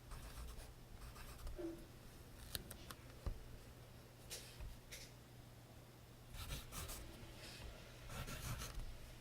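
Pencil scratching on paper in short, irregular runs of strokes, with a couple of sharp little taps between them.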